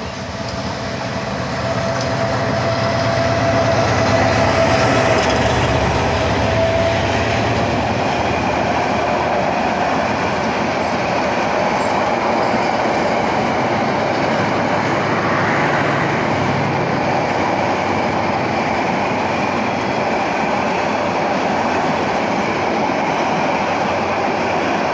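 Diesel-hauled express passenger train passing close by: the locomotive's engine drone is loudest about four to five seconds in as it goes by. After that comes the steady rumble and clatter of the coach wheels on the rails.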